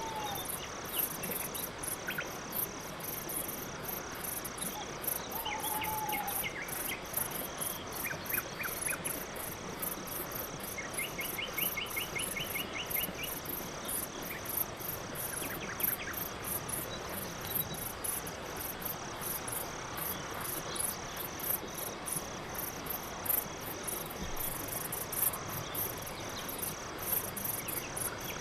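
Crickets chirping at night in a steady, even pulsing rhythm. A few faint short runs of quick chirps sound over it in the first half.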